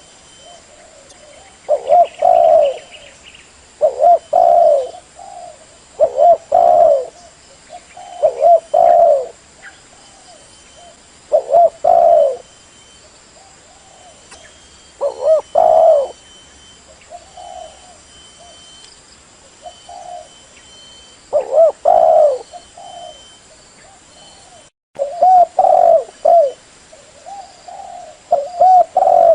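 Spotted dove cooing its repeated song, a short phrase every two to three seconds with a few longer pauses in the middle. This is the decoy bird's call used to lure wild spotted doves.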